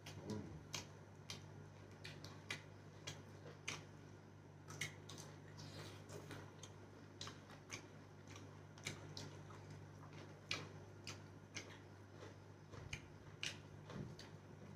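Close-up eating sounds of two people chewing and lip-smacking as they eat by hand: irregular wet clicks, about two or three a second. A steady low hum runs underneath.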